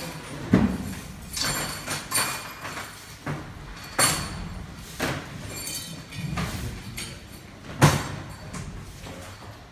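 Irregular knocks and clinks of hard objects being handled, with three sharp loud knocks spread through, the loudest near the end, over a low background rumble.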